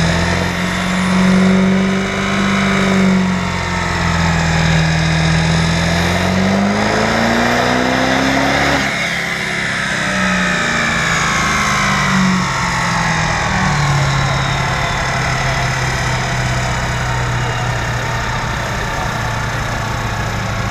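Turbo diesel pickup truck engine in a pull on a chassis dynamometer. The engine pitch climbs for the first several seconds, then drops sharply about nine seconds in as the throttle is released. A high whistle falls away with it, and the engine runs on at a lower steady speed.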